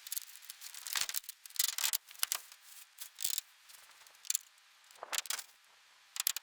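Irregular short scraping and rubbing strokes, mostly high-pitched, with a few sharp clicks, the sound of hand work during restoration.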